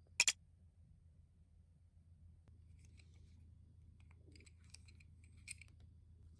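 A sharp double click just after the start, then a few faint, scattered light clicks and rustles of small handling over a steady low hum. No pump motor is running.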